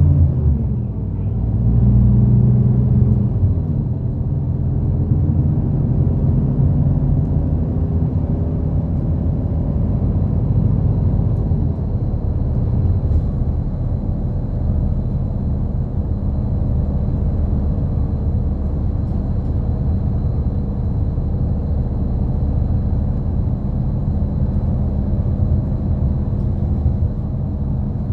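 City bus engine running and road rumble heard from inside the cabin while the bus drives along, with a low, steady drone; the engine note is stronger for about a second around two seconds in. A faint, steady high whine joins about a third of the way through.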